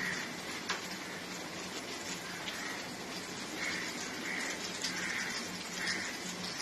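Chicken and masala with a little added water simmering in a pan, a steady bubbling sizzle with soft recurring swells and a few faint ticks.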